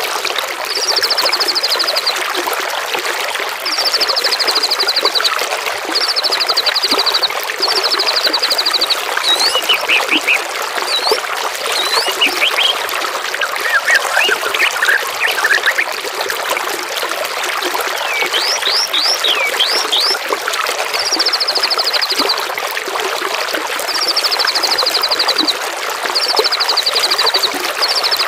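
Songbirds over a steady trickle of running water. A high, rapid trill lasting about a second is repeated in runs of four: one run early, another near the end. Short high whistles and chirps fill the middle.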